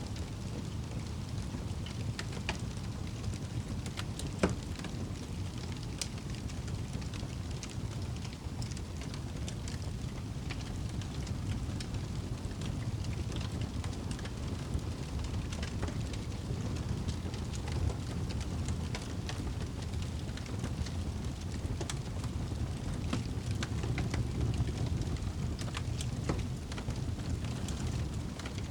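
Campfire crackling, with scattered sharp pops of burning wood and one louder pop about four seconds in, over a steady low rush.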